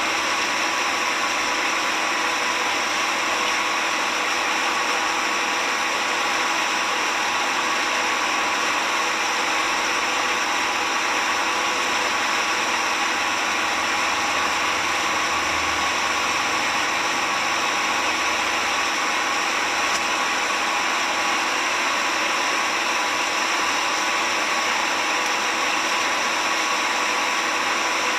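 Motorboat engine running steadily while the boat is underway, with a constant rush of wind and water over it. It holds an even level with faint steady engine tones throughout.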